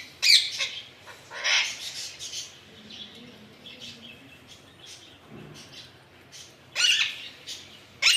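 Alexandrine parakeet calling: loud, harsh squawks near the start, about a second later and near the end, with softer chirps between them.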